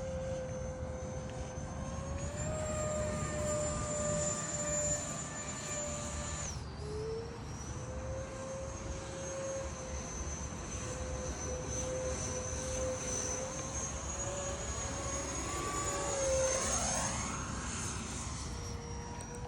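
Electric ducted-fan whine of a Freewing Eurofighter Typhoon RC jet in flight. The pitch steps up about two seconds in, drops sharply for a moment just before seven seconds as the throttle is eased, and then holds. Near the end the sound sweeps and shifts as the jet passes by.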